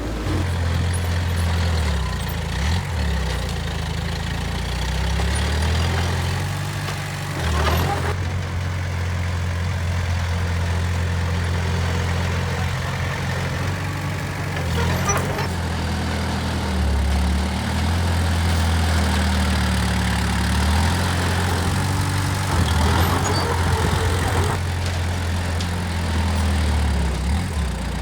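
Heavy diesel engines of earthmoving machinery running, their low note shifting slowly up and down as the machines work, with a few brief knocks.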